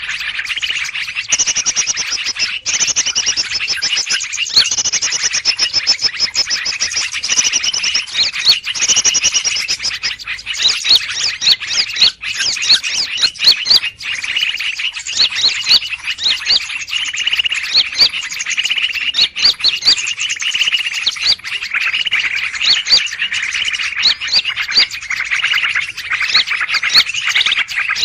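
Dense chorus of many small birds calling at once, with rapid high-pitched chirps and trills overlapping without a break. It is a 'ribut' (noisy, bustling) bird-lure recording, played to attract greater green leafbirds.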